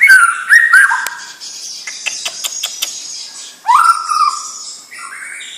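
White-rumped shama singing: loud whistles that rise and then hold one pitch, then a run of sharp clicks with high chatter in the middle, and another rising whistle about four seconds in, followed by high warbled notes.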